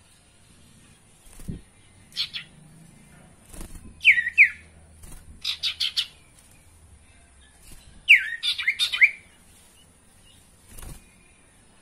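Common iora (sirtu) calling in short, sharp whistled notes that fall in pitch, given in bursts: a single note about two seconds in, a pair around four seconds, a quick run of four just before six seconds, and a louder cluster around eight to nine seconds.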